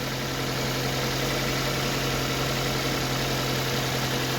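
2006 Toyota Corolla's four-cylinder engine idling steadily, with an even hum that holds a constant pitch. It is running again after a new crankshaft position sensor cured its crank-but-no-start fault, and is idling with the radiator cap off so the freshly filled cooling system can warm up and bleed out air.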